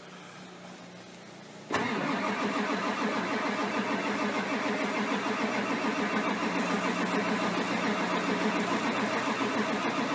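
A 1999 Ford F-250 Super Duty's 7.3L Powerstroke V8 turbo diesel cranking on the starter with an even, rhythmic pulse, starting abruptly about two seconds in and running about eight seconds without firing. It is a cold start at about 9 °F that fails to catch, because a bad glow plug relay has left the glow plugs not heating.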